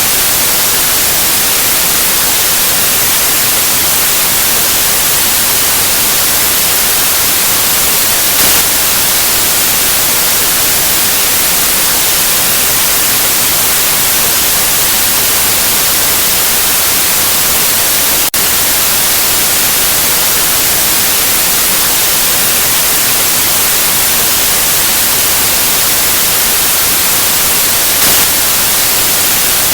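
Steady, loud white noise: an even hiss strongest in the treble, with a split-second dip about eighteen seconds in.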